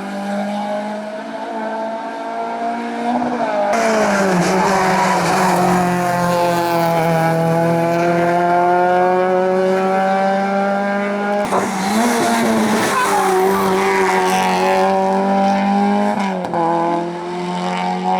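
Competition car's engine running hard at high revs on a hillclimb run. The pitch breaks and drops briefly three times, then picks up again.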